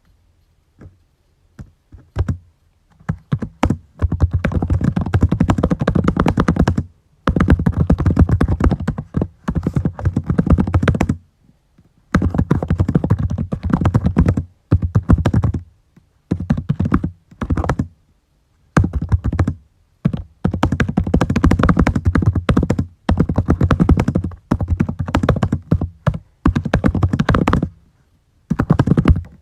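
Fast typing on a computer keyboard: runs of rapid key clicks lasting a few seconds each, broken by short pauses.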